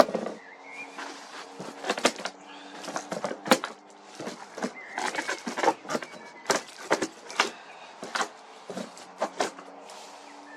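Irregular knocks, clicks and scrapes of a cardboard box being handled and opened, with a faint steady hum underneath.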